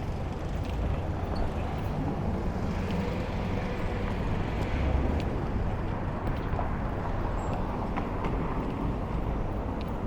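Busy city street traffic: a steady rumble of passing vehicles with scattered small clicks and knocks.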